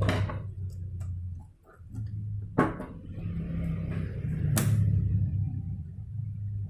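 Clicks and knocks from a projector being taken apart by hand: three sharper knocks and some lighter ticks over a steady low hum.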